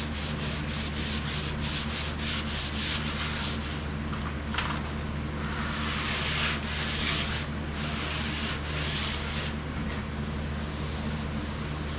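Sandpaper being rubbed by hand over a painted car body panel: quick short strokes, a single click about four seconds in, then longer, slower strokes. The rubbing sounds smooth, without the gritty sound of a dirty surface, a sign that the panel is now clean and smooth.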